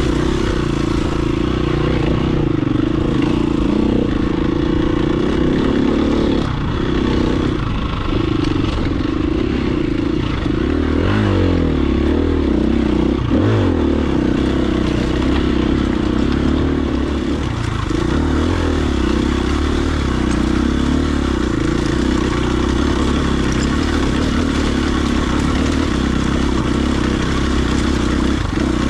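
Dirt bike engine running while riding a trail, mostly at steady revs, with quick drops and rises in revs about eleven and thirteen seconds in.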